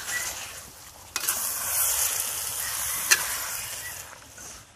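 Wild boar rendang in spice paste sizzling in a hot steel wok while a metal spatula stirs it. The sizzle starts suddenly about a second in and fades near the end, with a sharp clink of the spatula on the wok about three seconds in.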